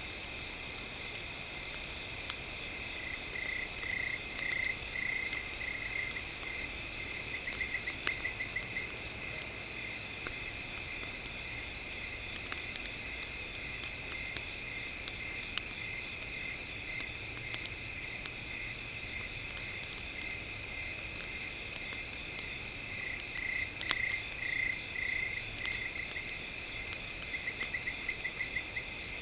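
Campfire crackling with sparse sharp pops over a steady high-pitched chirring layer. A rapid pulsed call comes in twice, about three seconds in and again a few seconds before the end.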